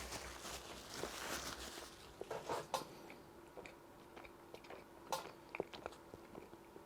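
Close-up chewing of a burger, with wet mouth smacks and small crunches at irregular moments, a cluster of them about two and a half seconds in and another near five seconds.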